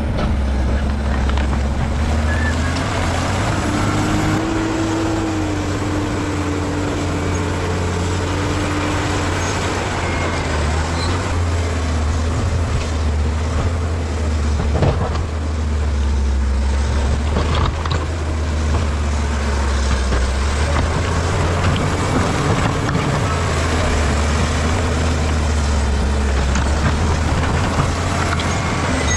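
Bulldozer's diesel engine running under load, a steady deep drone whose note rises and falls a little. A couple of sharp knocks about halfway through.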